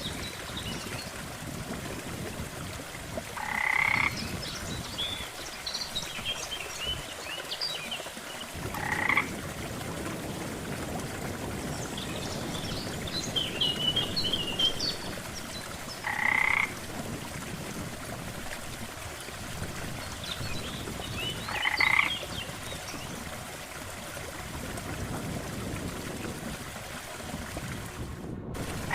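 Frog croaking: a pulsed call about a second long that repeats every five to six seconds, with small high chirps in between, over a steady background hiss. The sound cuts out for a moment near the end.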